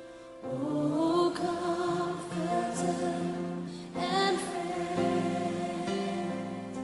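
Choral music: voices singing a slow piece over sustained chords.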